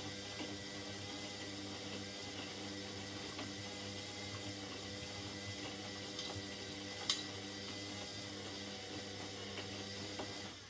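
Indesit 71252 washing machine running with water moving through it: a steady humming with a hiss of water and a sharp click about seven seconds in. The hum and water cut off suddenly near the end.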